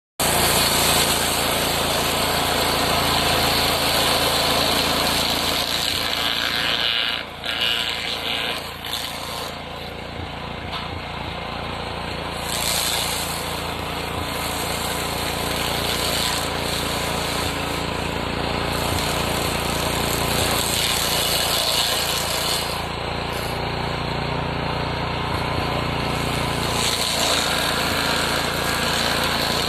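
Petrol-engined stump grinder running, its engine steady under load while the cutter wheel grinds into wood, the grinding noise rising and easing every few seconds.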